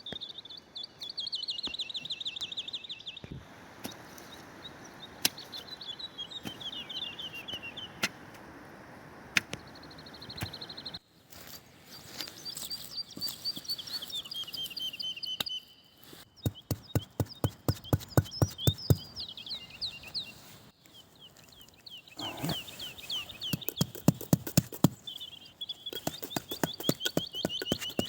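A songbird singing repeated short falling trills, each about two seconds long, outdoors in woodland. In the second half come runs of quick sharp knocks or crunches, several a second.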